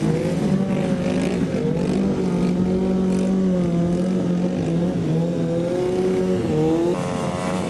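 Small single-cylinder mini bike engine running at high revs, held nearly steady for several seconds; the revs dip about six and a half seconds in and then pick up again.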